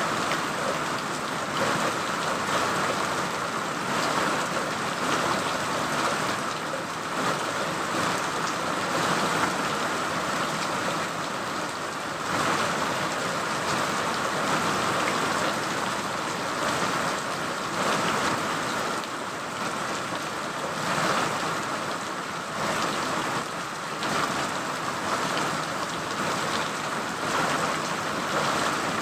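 Steady rain: an even hiss of many falling drops that swells and eases slightly.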